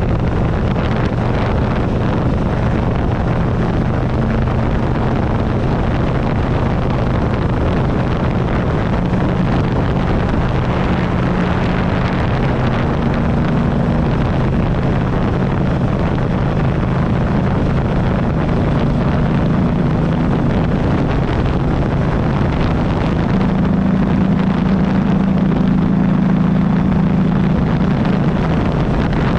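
2008 Buell Ulysses XB12XT's air-cooled V-twin engine running steadily on the road, its pitch rising a little about two-thirds of the way through. Wind buffets the handlebar-mounted microphone.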